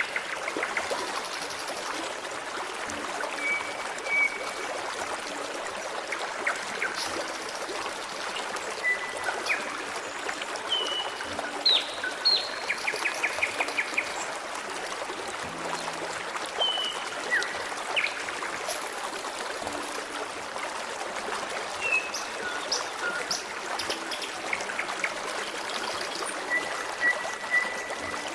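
Forest stream babbling and trickling steadily, with birds singing over it in short whistled notes, quick chirps and a brief rapid trill.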